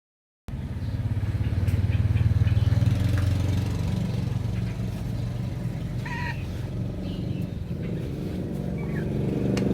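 A steady low engine rumble, like a motor running close by, starting about half a second in. A short bird call cuts through about six seconds in, with a few faint chirps around it.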